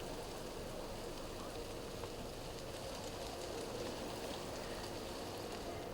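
Faint, steady crackling hiss of a wildfire burning through vegetation.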